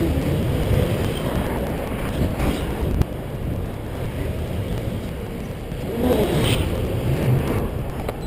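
Wind and road rumble on a bicycle-mounted GoPro's microphone while riding, swelling and easing, with a single sharp knock about three seconds in.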